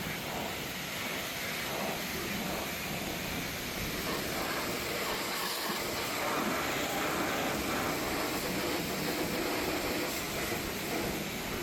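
Steady rushing hiss of car-wash equipment running without a break.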